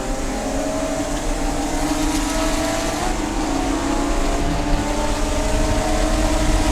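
Race car engine running hard under load, its pitch climbing slowly as the car accelerates, over a steady low rumble of wind and road noise.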